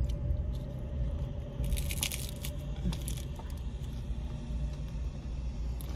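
A person biting and chewing a crisp hard-shell corn taco, with a burst of crunching about two seconds in and a shorter one about a second later, over a low steady hum.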